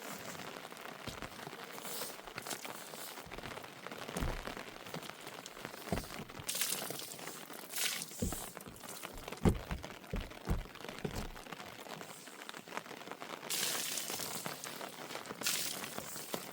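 Rain falling steadily, with irregular knocks and crackles and a few brief, louder hissing surges.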